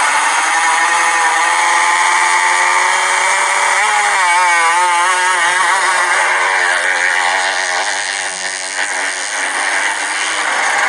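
Motocross bike engines running hard on track, the pitch rising and falling with the throttle and wavering quickly about four seconds in.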